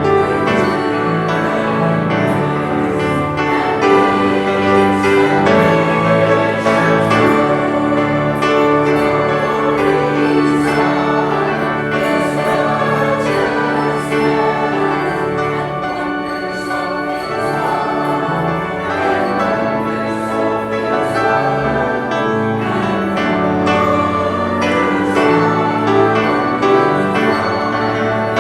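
A choir singing, with held notes and steady volume throughout.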